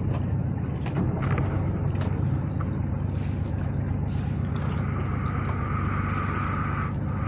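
Canal tour boat's engine running steadily with a low drone, with scattered light clicks. A higher steady whine joins a little past the middle and stops shortly before the end.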